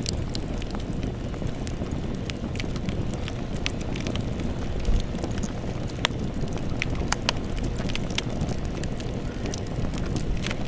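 Campfire burning with a steady low rumble of flames and scattered crackles and pops of burning wood.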